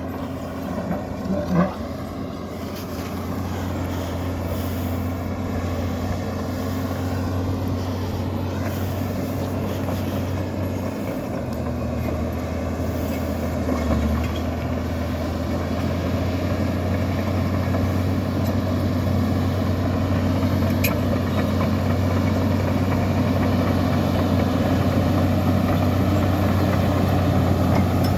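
Komatsu bulldozer's diesel engine running with a steady low drone, slowly growing louder. There is a brief sharper sound about a second and a half in.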